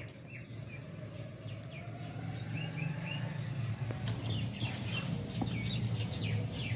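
Small birds chirping repeatedly over a steady low hum, with a few soft handling noises partway through.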